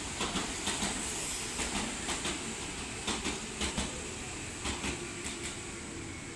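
A passing electric train's wheels clacking over rail joints, sharp clicks coming in uneven pairs over a steady rumble, thinning out and getting quieter toward the end.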